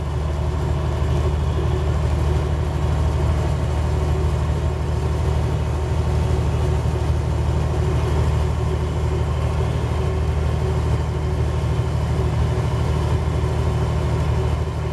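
Peterbilt truck's diesel engine running with a steady low drone, heard from inside the cab.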